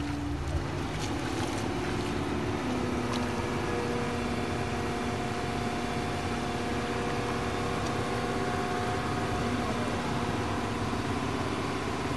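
Engine running steadily at a constant hum, its pitch stepping down slightly about a second and a half in.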